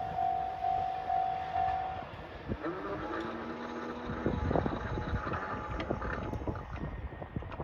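KiHa 283 series diesel express train running past. A quickly repeated ringing ding stops about two seconds in, and a brief horn blast sounds near the middle.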